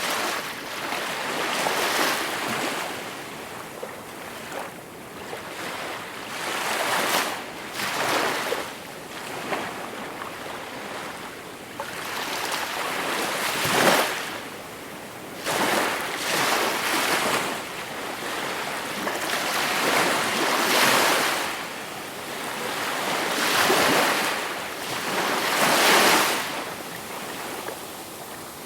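Gentle sea waves breaking and washing on the shore, one surge after another every two to three seconds, with a few louder breakers about 14 and 26 seconds in.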